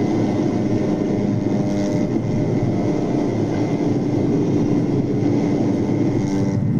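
A vehicle engine running steadily at a constant pitch, under a continuous rushing noise.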